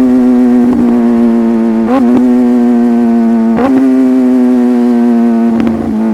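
Sport motorcycle engine running at steady high revs. Its pitch is briefly blipped and shifted four times.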